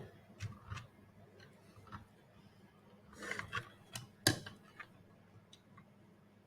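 Scattered light clicks and taps of small plastic robot parts being handled and fitted together, with a short cluster about three seconds in and one sharp click just after four seconds.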